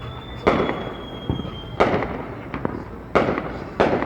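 Neighborhood Fourth of July fireworks bursting: four loud bangs, each with an echoing tail, and smaller pops between them. A faint high whistle falls slowly in pitch and cuts off at the second bang.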